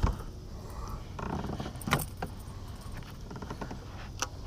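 Light clicks, rattles and knocks of handling over a steady low rumble, with a sharper click about two seconds in and another near the end.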